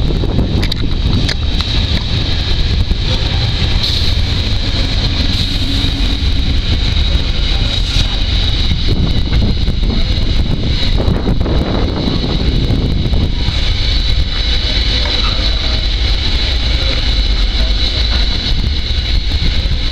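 Container freight train's flat wagons rolling past close by: a steady rumble of steel wheels on the rails, with a high steady ring over it and a few sharp clacks over the rail joints.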